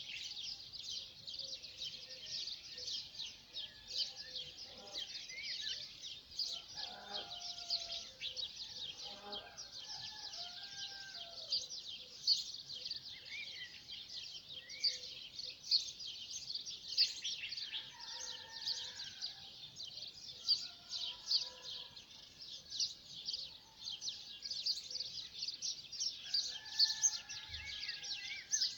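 Dense chorus of many small birds chirping and twittering without a break, with a few lower, longer calls now and then.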